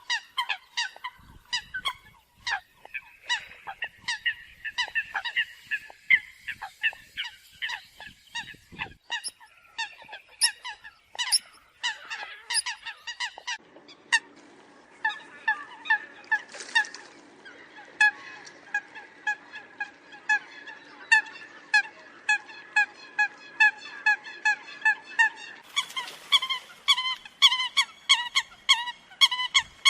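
Eurasian coots calling: a fast, continuous run of short, repeated calls, several a second, with more than one bird overlapping. The sound changes character about 14 seconds in, with a faint hiss underneath, and again about 26 seconds in.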